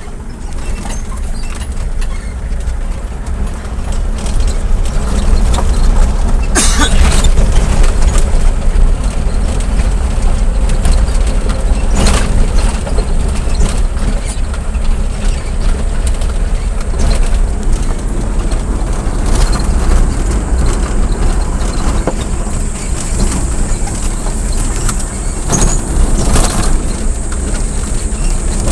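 A vehicle travelling along a road: a steady low rumble of engine and road noise, with a couple of brief sharper noises about 7 and 12 seconds in.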